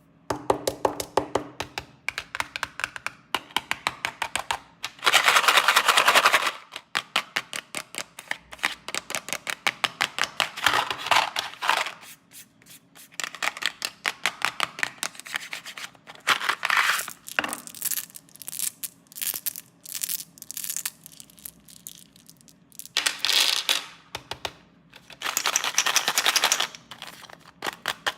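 Plastic snack packets being torn open and crinkled, in bursts of dense crackling with rapid clicking in between, the loudest crinkling bursts coming several times.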